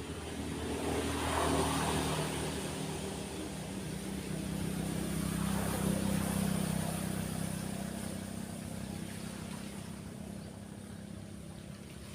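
Motor vehicles passing one after another, their engine hum swelling about a second and a half in and again around the middle, over a steady wash of small waves.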